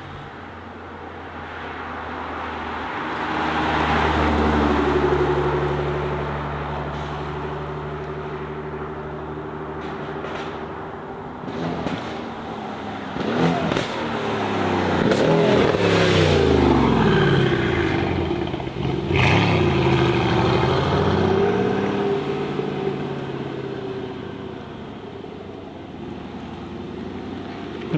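Car engines revving hard and driving past, their pitch sweeping up and then dropping as each goes by, with a few sharp pops in the middle. Several engine notes overlap at the loudest point.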